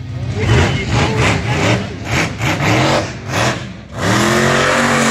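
Monster truck engine revving hard in quick repeated surges, rising and falling in pitch, then one longer rev that climbs, holds and drops near the end.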